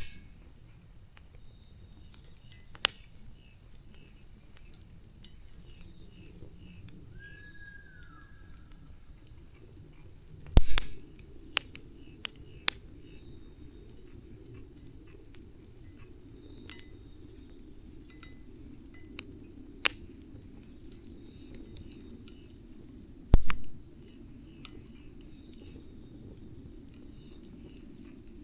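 Wood fire crackling, with scattered sharp pops over a low steady rush. Two louder snaps come near the middle and toward the end.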